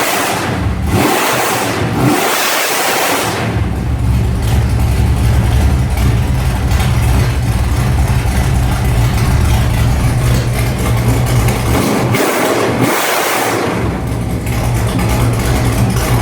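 A 1972 Dodge D200's cammed 434 cubic-inch stroker small-block V8, through long-tube headers and true dual exhaust, idling and revved: blips at the start and about two seconds in, then steady running, and another rev about twelve seconds in.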